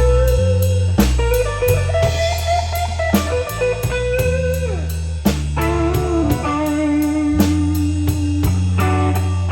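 A blues band playing an instrumental passage: an electric lead guitar plays long, bending, sustained notes over a walking bass line and a drum kit keeping a steady beat.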